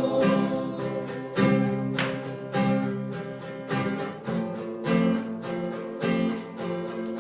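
Acoustic guitar strummed in chords, keeping a steady rhythm between sung lines.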